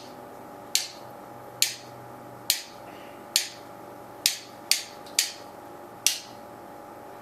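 Wooden rhythm sticks tapped together, tapping out the rhythm of a song: about eight sharp clicks, mostly just under a second apart, with three quicker taps about two-thirds of the way through.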